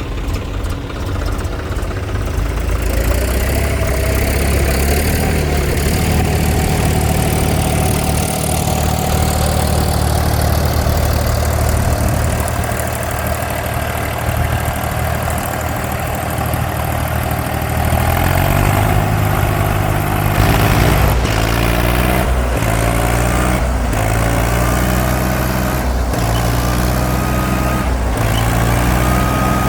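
Heavy diesel engine running steadily under load, then revved up and down again and again through the second half.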